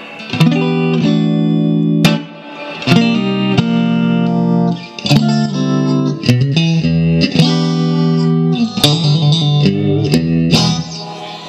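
1965 Fender Stratocaster electric guitar played straight into an amplifier: picked chords that ring out between strokes, a quick run of single notes near the end, then the sound dies away.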